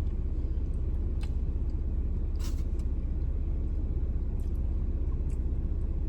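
Steady low rumble of a car idling, heard from inside the cabin, with a few short faint crackles, the clearest about two and a half seconds in.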